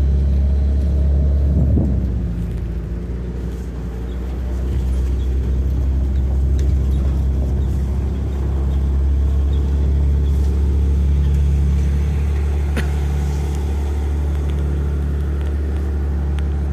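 Steady low rumble of a motor vehicle running, with faint engine tones above it. It dips briefly about three seconds in.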